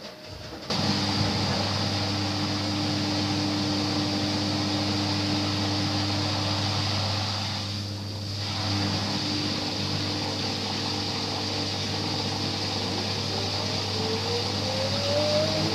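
LG washing machine in its spin cycle: a loud, steady motor hum and drum whoosh that starts abruptly about a second in. Near the end a whine rises in pitch as the drum speeds up.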